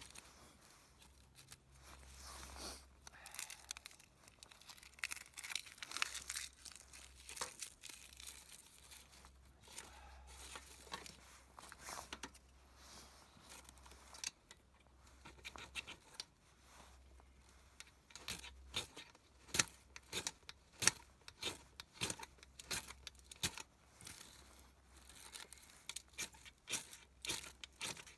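Thin birch bark being peeled and torn apart by hand: papery tearing and rustling, then many short sharp snaps in the second half.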